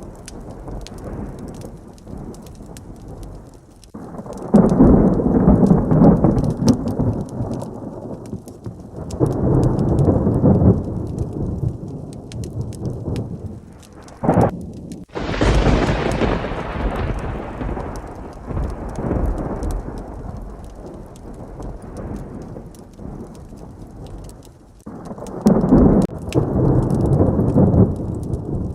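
Heavy rain with repeated thunder. Low rolling rumbles come about 4 and 9 seconds in. Near the middle a close strike gives a sharp crack and then a loud peal that fades over several seconds, and another rumble comes near the end.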